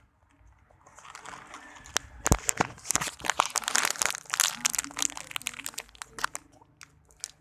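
Plastic packaging crinkling and crackling as it is handled, starting about a second in and easing off near the end.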